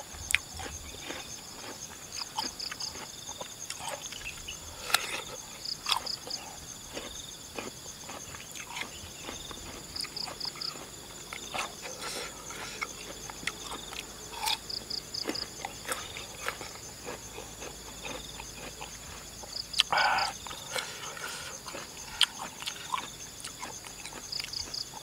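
Raw jicama pieces being bitten and chewed, short crisp crunches and wet mouth clicks scattered through, with one louder mouth sound about twenty seconds in. Behind them insects chirp steadily: short trills of about four chirps repeating every two to three seconds over a constant high drone.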